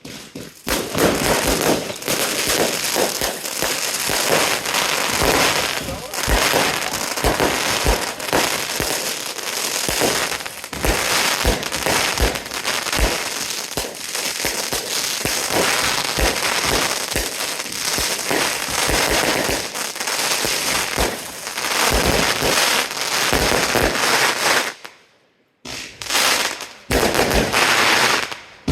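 Consumer F2 fireworks batteries firing: a dense, near-continuous run of shots, bangs and crackling effects, breaking off briefly near the end before more shots start.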